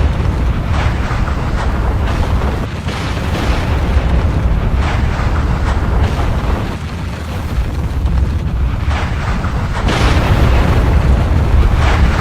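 Volcanic eruption: a steady deep rumble with surges of rushing, crackling noise every few seconds, growing louder near the end.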